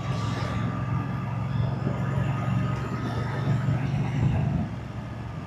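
Moto Guzzi V-twin motorcycle engine and exhaust running at a steady cruise. The engine note gets quieter about four and a half seconds in.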